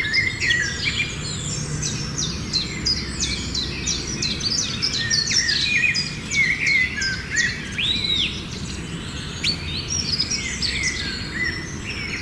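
A chorus of several songbirds calling at once: many quick, overlapping chirps and short whistles, over a steady low background rumble.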